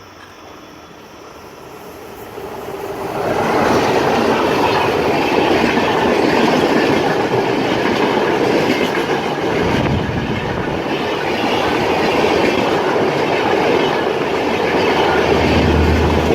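Diesel-hauled express train passing close by: the sound builds over the first three seconds as the WDM3A ALCO locomotive comes up, then holds as a steady loud rumble of LHB coaches rolling past on the rails.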